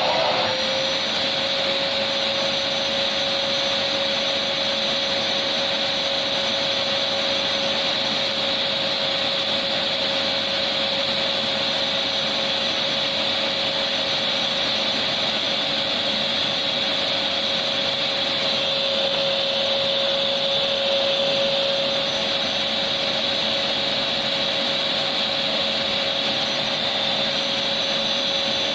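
Electric vacuum cleaner running steadily: a constant rushing noise with a steady mid-pitched whine. The tone shifts slightly right at the start, then holds unchanged.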